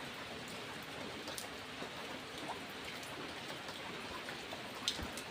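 Steady rain falling, a dense even hiss with individual drops ticking sharply on a surface here and there, a couple of them standing out.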